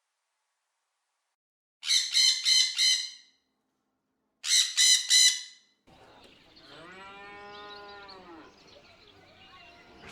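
A bird calling in two quick series of four loud, high-pitched notes, then a cow mooing once in a long call that rises and falls in pitch, with fainter lowing after it.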